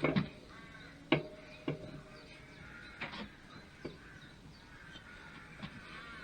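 Sharp metallic knocks and clunks as a BSA A50 cylinder head is worked round past the frame and onto its studs. The loudest two come right at the start and about a second in. Repeated cawing birds are heard in the background.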